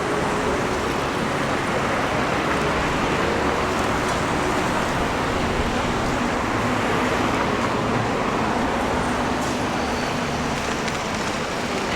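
Steady road traffic noise on a city street, an even rumble and hiss with a faint engine hum.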